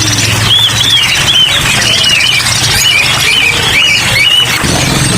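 Many small caged songbirds chirping together, with short arched chirps repeating two or three times a second over a steady hiss and a low hum.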